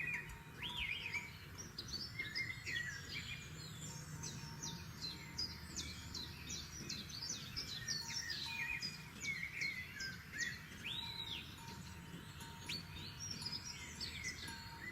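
Several forest songbirds singing and calling, with a fast run of repeated downward-sweeping notes in the middle, over a steady low background noise.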